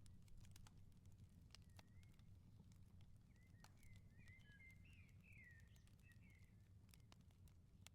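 Faint outdoor wood fire crackling with scattered sharp pops over a low steady rumble. Small birds chirp once about two seconds in, then twitter in a run of quick notes from about three to six seconds in.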